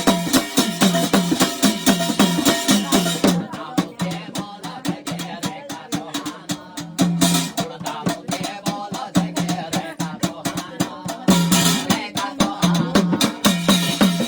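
Garhwali jagar folk music in an instrumental passage without singing: fast, even drum strokes over sustained melodic tones. It thins out and softens about three seconds in, then fills out again near the end.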